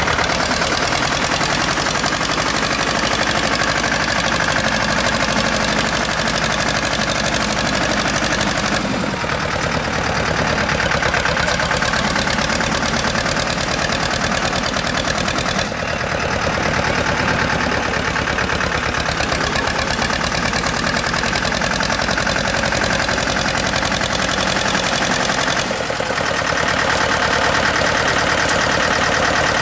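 Tractor engine running steadily, the sound changing abruptly about 9, 16 and 26 seconds in.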